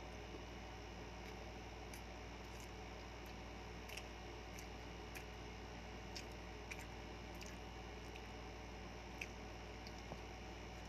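Close-up mouth sounds of someone eating rice and meat by hand: scattered small wet clicks and smacks of chewing, about a dozen over several seconds, above a steady low hum.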